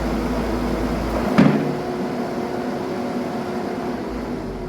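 A heavy-equipment diesel engine running steadily, with one sharp metallic clunk about a second and a half in.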